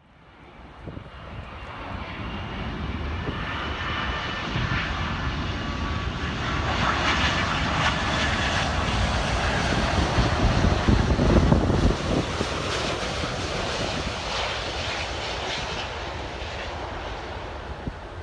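Jet airliner's engines passing on landing approach. The sound builds up, is loudest about eleven seconds in with a faint fan whine, then slowly fades away.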